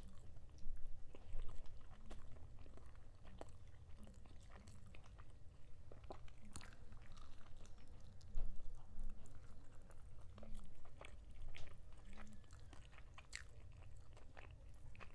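Close-miked chewing and biting of chicken drumstick meat, with wet mouth clicks and smacks coming at an irregular pace.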